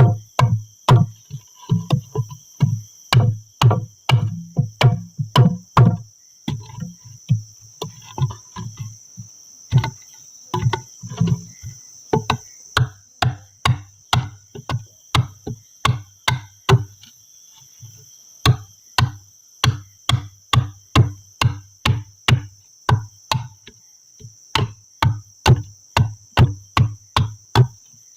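A long series of chopping blows, about two a second, with a few short pauses. Under them runs a steady, high drone of crickets.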